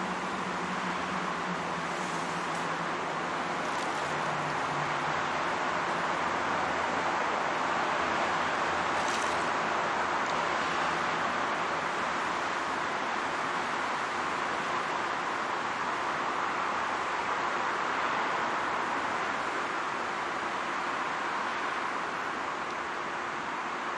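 Steady rushing street noise of traffic and wind on the microphone, with a faint low hum early on and a few brief ticks.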